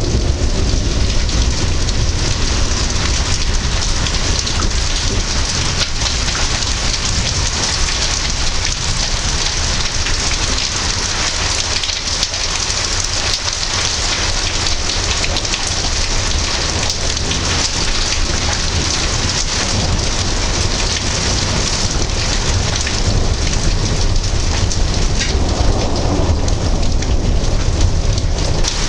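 Heavy rain falling steadily during a thunderstorm, with a low rumble of thunder underneath.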